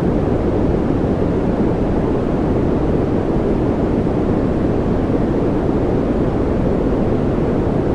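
Continuous white-noise track: a steady, deep rushing hiss weighted toward the low end, with little treble and no change in level or character.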